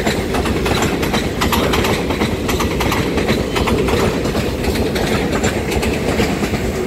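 Taiwan Railways EMU3000 twelve-car electric multiple unit passing close by: a steady rumble of steel wheels rolling on the rails, broken by a rapid, irregular clatter of clicks as the bogies cross the rail joints.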